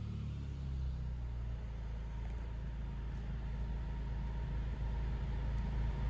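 2015 Honda Civic Si's 2.4-litre four-cylinder idling at about 820 rpm with a silencer insert in its exhaust: a steady low rumble.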